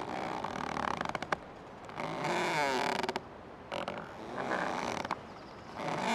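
Old tree creaking: three or four drawn-out creaks in a row, some with a wavering, bending pitch, the last starting near the end.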